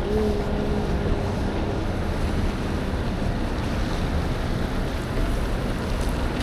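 Wind rushing over the microphone with the hiss of tyres on a wet road while riding in the rain, a steady noise with a deep rumble underneath. A faint held tone sits in the noise over the first couple of seconds.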